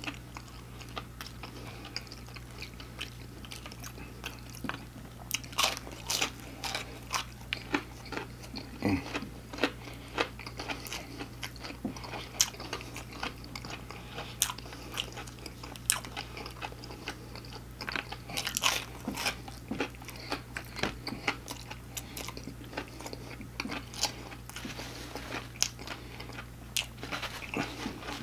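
Close-miked biting and chewing of a crispy fried chicken tender: irregular sharp crunches of the battered coating, many times a second at its busiest.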